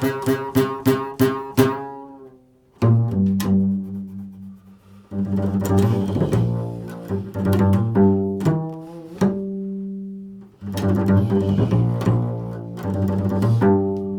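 Improvised solo instrumental music in a low register: a quick run of separate plucked-sounding notes, then longer held notes in short phrases with brief pauses between them.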